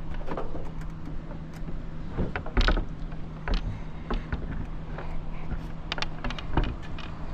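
Scattered sharp clicks and knocks of a metal lockout tool working inside a truck door toward the latch, the loudest knock about two and a half seconds in, over a steady low hum.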